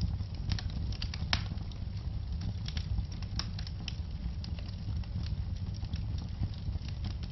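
Wood fire burning in a fireplace: a steady low rumble of flames with frequent sharp, irregular crackles and pops, the loudest snapping at about a second and a half and again near three and a half seconds.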